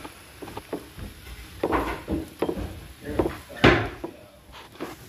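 Potatoes being mashed with butter in a pot by hand: a masher thumping and knocking irregularly against the pot, with one harder knock past the middle.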